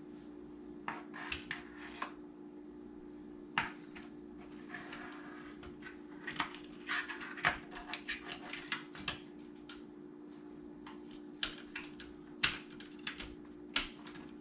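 Irregular sharp clicks and small plastic clatter of wire connectors and parts being handled and pushed onto a dishwasher control board, busiest in the middle, over a steady low hum.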